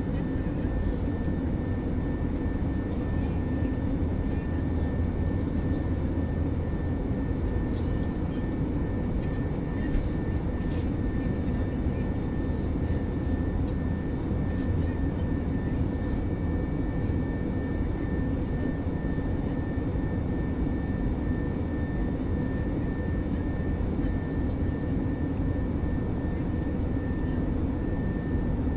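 Steady cabin noise of a passenger jet in flight: engine and airflow noise, even and unbroken, with a thin steady high tone over it.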